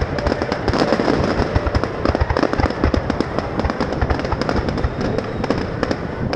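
Fireworks display: a dense, continuous run of bangs and crackles from many shells bursting close together.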